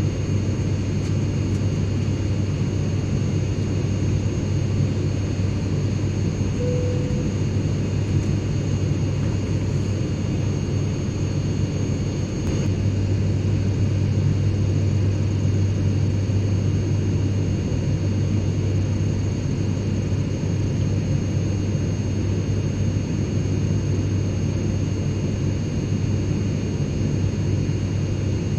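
Airliner cabin noise in flight: a steady low rumble with a strong hum, and faint steady high-pitched whine tones over it. A short faint low tone sounds briefly about a quarter of the way in.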